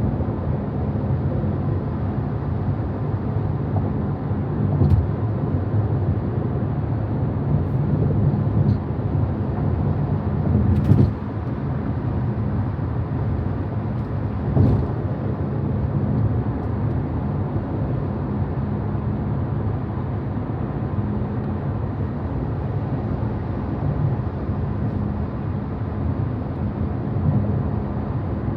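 Steady road and tyre rumble inside the cabin of a moving electric 2023 Tesla Model Y Performance, with no engine note. Two louder bumps stand out, one about 11 seconds in and another near 15.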